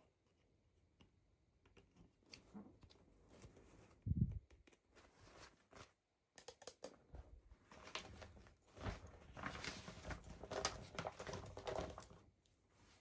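Hands unboxing toys: packaging rustling and crinkling with small clicks, a dull thump about four seconds in, and busier rustling in the second half.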